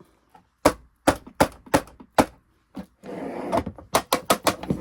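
Irregular sharp clicks and knocks of hard parts being handled as a screwdriver works at the screws and body cover of a Singer Genie sewing machine, with a short scraping rustle around the middle and a quick run of clicks near the end.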